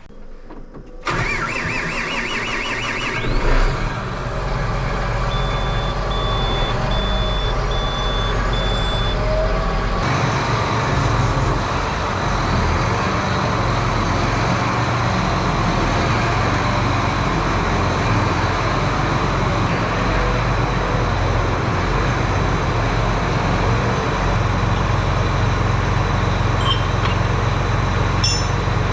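John Deere 8370R tractor's diesel engine running steadily. It comes in suddenly about a second in. A row of about five evenly spaced high beeps sounds a few seconds later.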